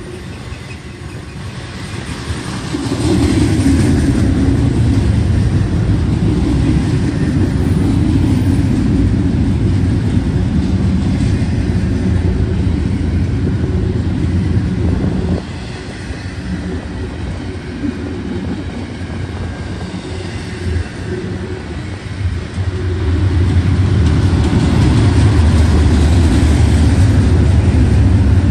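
Intermodal freight cars rolling past on steel wheels: a steady rumble and clatter on the rails. It grows louder a few seconds in, eases about halfway through and swells again near the end.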